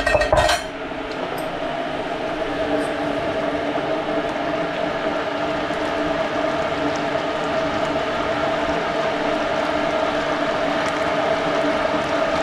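A short clatter of dishes and utensils, then a steady rushing noise with a constant hum that does not change.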